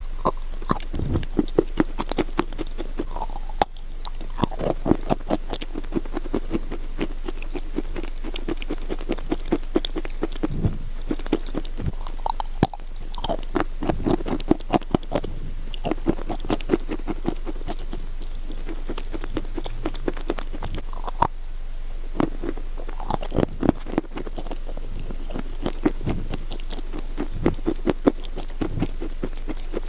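Close, crackly crunching of wet clay, in dense irregular clusters of small crackles and squishes that come and go throughout.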